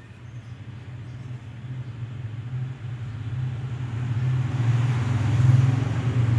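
A motor engine running with a low hum, growing steadily louder over the first five seconds or so and then holding.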